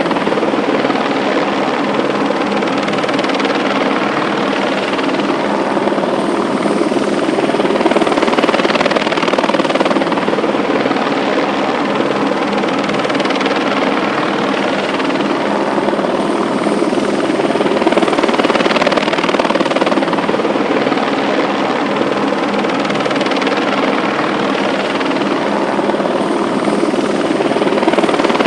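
Loud, steady mechanical drone with a faint steady hum in it, running without a break.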